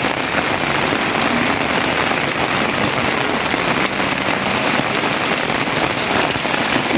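Heavy rain pouring down steadily, a dense even hiss made of countless drop impacts.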